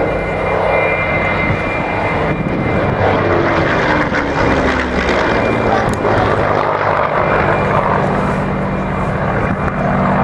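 Aircraft engine sound from a display aircraft flying past. A tone in it drops in pitch about three to five seconds in as the aircraft goes by.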